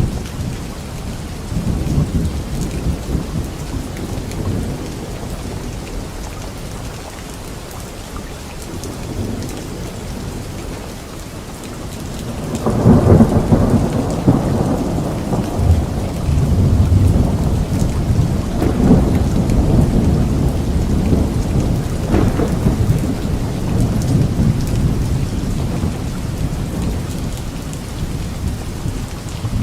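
Steady rain falling during a thunderstorm, with low rumbles of thunder. About halfway through, a loud roll of thunder breaks out and rumbles on for around ten seconds, with a sharper crack inside it before it dies back to the rain.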